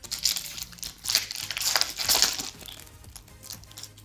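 Foil booster pack wrapper crinkling in the hands as a pack is opened, in irregular crackly bursts over the first two and a half seconds.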